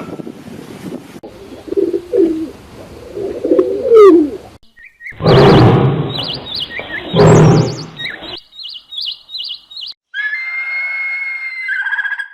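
A run of different animal calls in quick succession: low gliding calls at first, two loud harsh bursts in the middle, then quick high bird chirps and a clear whistled bird song near the end.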